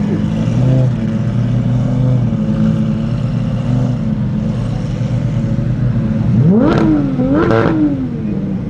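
Car engine idling, then revved twice in quick succession about six and a half seconds in, each rev rising sharply in pitch and falling back.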